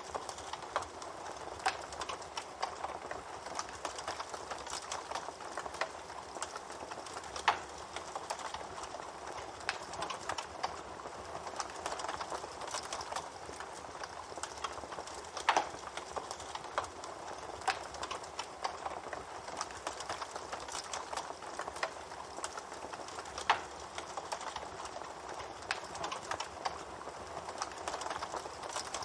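Wood fire (bonfire) burning, crackling steadily with a dense run of small pops, and a few louder snaps spaced several seconds apart.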